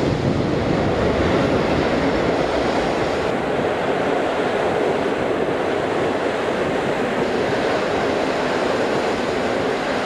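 Passenger train of coaches rolling past along the platform: a steady rumble of wheels on rails that holds unchanged the whole time.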